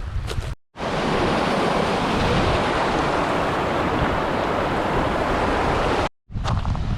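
Steady rush of water, even and unbroken, cut in abruptly just under a second in and cut off abruptly about a second before the end.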